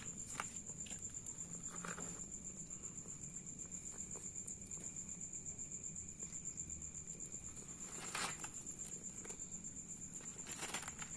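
An insect's steady, high-pitched pulsing trill, with a few brief soft rustles.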